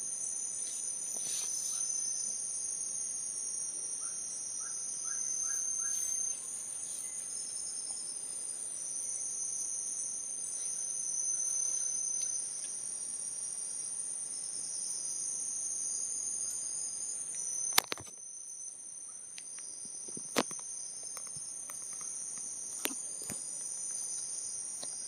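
Chorus of forest insects: a steady high-pitched buzz with pulsing trills layered over it. Three short sharp clicks come in the second half, the first the loudest.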